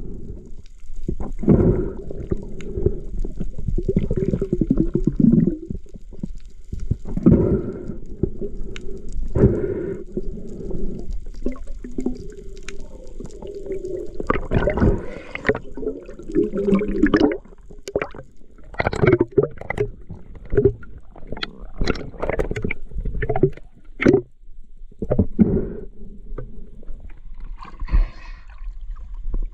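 Muffled underwater water noise: gurgling and bubbling around a submerged camera, with many short knocks and splashes in the second half.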